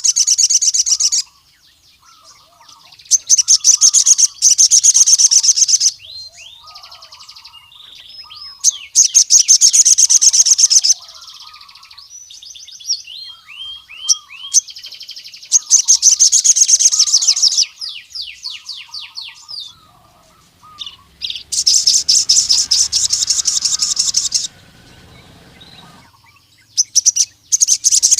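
Male crimson sunbird (sogon) singing: loud bursts of very rapid, high-pitched trilling a second or two long, repeated every few seconds, with softer twittering notes between the bursts.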